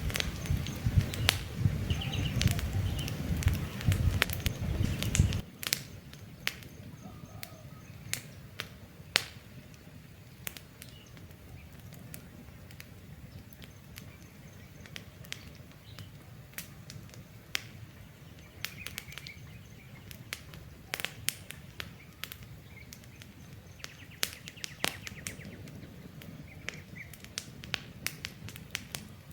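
Wood campfire crackling with frequent sharp pops, and birds chirping now and then. A loud low rumble under it for the first five seconds or so cuts off suddenly.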